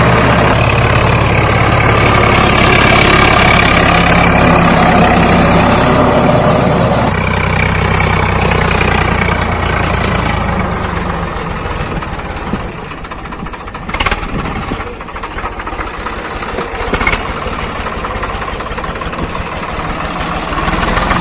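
Swaraj 855 FE tractor's three-cylinder diesel engine running steadily, its note changing about seven seconds in and then dropping quieter. Two sharp knocks come in the quieter stretch, and the engine sound rises again near the end.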